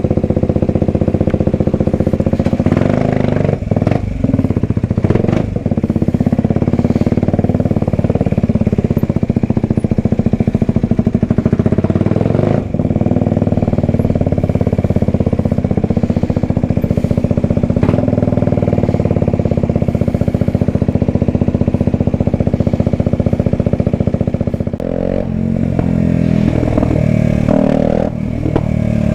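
Kawasaki Ninja 125's single-cylinder four-stroke engine running at a steady speed, then its pitch shifts about four seconds before the end as the revs change.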